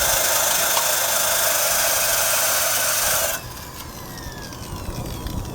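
A wire brush on an electric drill scours rust off the steel frame of a 1965 Honda Cub with a loud, harsh scraping. It stops abruptly a little past three seconds in, and the drill's whine falls as it spins down.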